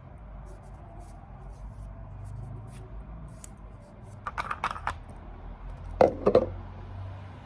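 Small hard objects being handled and set down: a quick run of light clicks past the middle, then two or three louder knocks about six seconds in, over a low steady hum.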